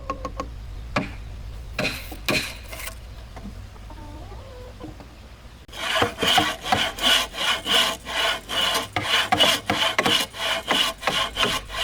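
Hand saw cutting through wood in quick, even back-and-forth strokes, starting abruptly about halfway in after a few scattered scrapes and knocks.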